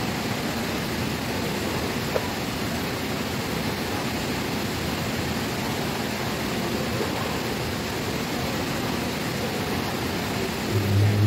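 Steady hiss of rain on a corrugated metal roof. Near the end, a low voice starts chanting.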